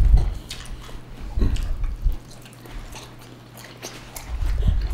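People chewing food, with many short mouth clicks and a few low thumps near the start, about a second and a half in, and near the end.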